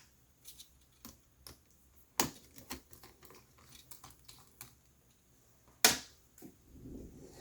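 Small, sharp clicks and taps of tiny laptop screws being handled and set down on a hard work surface, irregular, with two louder clicks about two seconds in and near six seconds.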